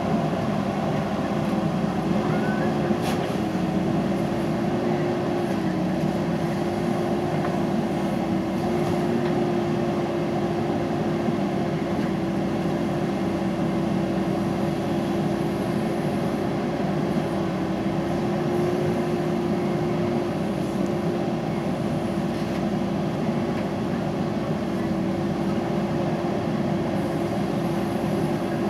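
JCB backhoe loader's diesel engine running steadily at a constant speed with an even hum, and a faint click about three seconds in.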